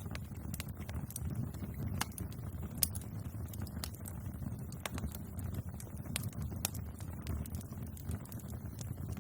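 Wood fire crackling: irregular sharp pops and snaps over a low, steady rumble of burning, with one louder pop about three seconds in.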